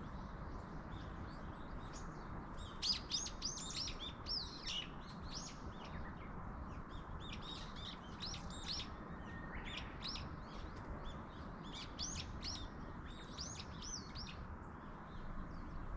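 Small songbirds chirping in quick runs of high, sweeping notes, thickest in several flurries, over a steady outdoor hiss.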